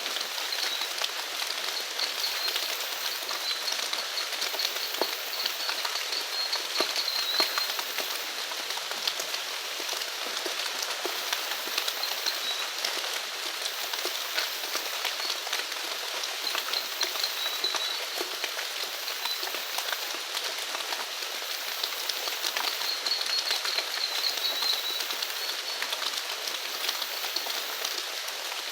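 Steady rain falling, with the tick of individual drops hitting a surface all through. A high trilling animal call comes and goes several times over it, and a faint, very high pulsing chirp repeats at even intervals.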